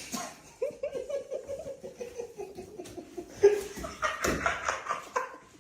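A person laughing in a run of short repeated bursts, with a sharp knock about three and a half seconds in.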